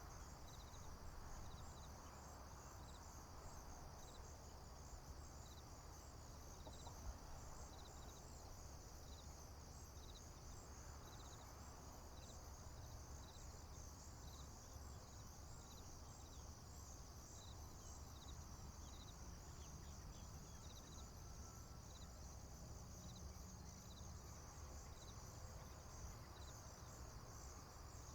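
Faint chorus of crickets and other insects in a field: a steady high pulsing trill with short chirps repeating about once a second, over a low rumble.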